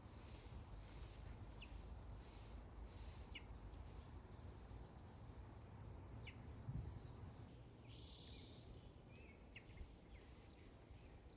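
Near silence outdoors: a few short, high bird chirps a couple of seconds apart over a faint low rumble.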